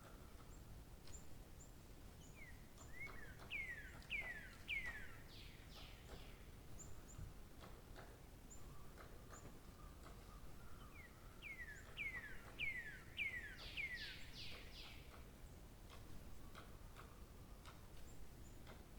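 A songbird singing two phrases, each a quick run of six or seven notes that slide down in pitch, with faint high chips between the phrases.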